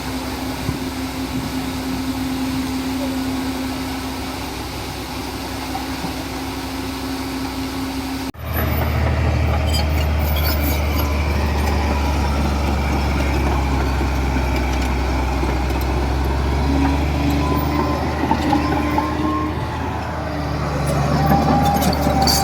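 Heavy diesel engine of construction machinery running steadily. About eight seconds in, the sound cuts abruptly to a louder, deeper engine drone.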